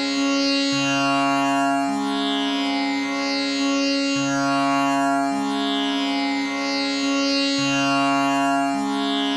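Tanpura tuned to C sharp, its strings plucked in a slow, repeating cycle so they blend into one continuous drone with many overtones. The low note changes about every three and a half seconds as each turn of the cycle comes round.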